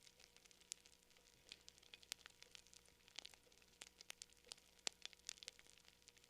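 Wood fire crackling quietly, with many small, irregular pops and snaps, several a second.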